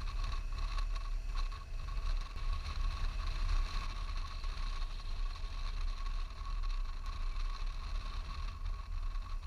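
A vehicle underway: a steady low rumble with an even, steady whine above it.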